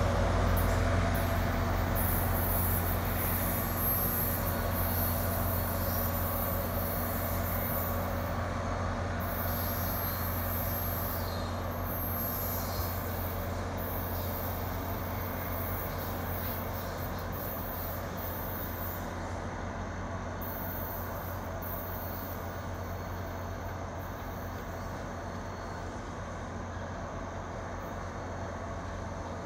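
Diesel locomotive engine running with a steady low drone as a passenger train rolls away along the track, fading gradually as it pulls off into the distance.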